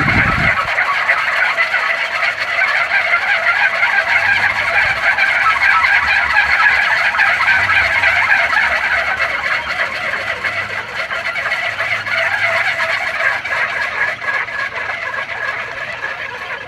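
A kolecer, a wooden wind-driven propeller about a metre and a half across, spinning in the wind with a loud, steady whirring buzz that eases a little in the second half.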